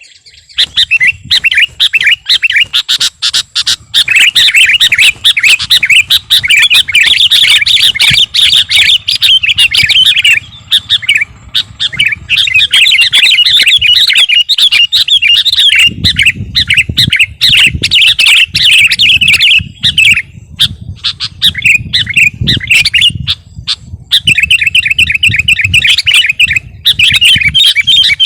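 Sooty-headed bulbul (kutilang) in full song: loud, rapid chattering phrases that run almost continuously with only short breaks. A low rumble sits underneath through the middle stretch.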